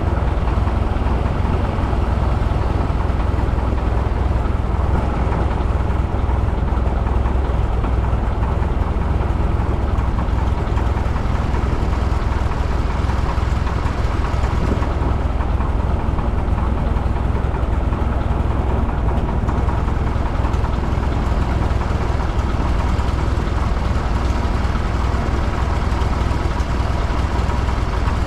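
Piper J-3 Cub's engine running steadily, heard from inside the cockpit: a constant low drone with no change in speed.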